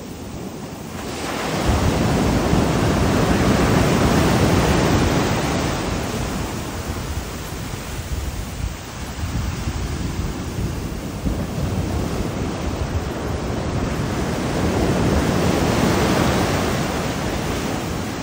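Ocean waves breaking on a Caribbean beach, surf rushing in twice, swelling about a second in and again near the end, with some wind on the microphone.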